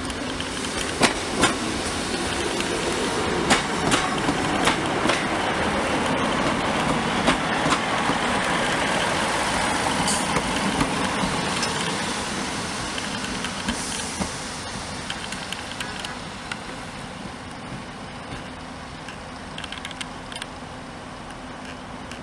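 Diesel multiple unit train running slowly past, its engine note and the clicking of its wheels over rail joints and points swelling to a peak about halfway through, then fading as it draws away. A steady low engine hum carries on underneath.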